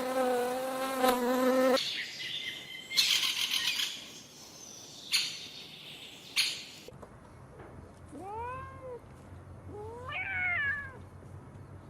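A steady insect-like buzz that stops about two seconds in, followed by a few sharp clicks and short noisy bursts. Then a cat meows twice near the end, two rising-and-falling calls, the second higher and wavering.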